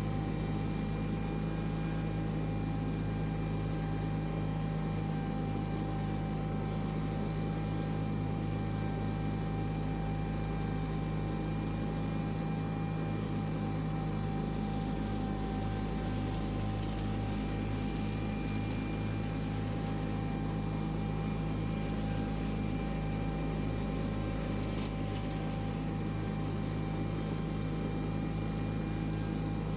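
John Deere 318 garden tractor's twin-cylinder Onan engine running steadily at working speed, with its mower deck turning while mulching leaves: a constant drone with a steady hum.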